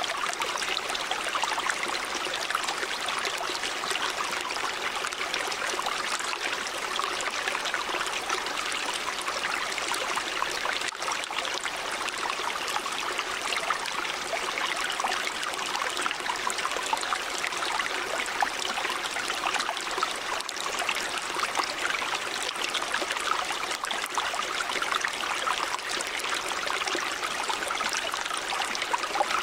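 River water running steadily over rocks, an even rushing babble with fine splashing detail.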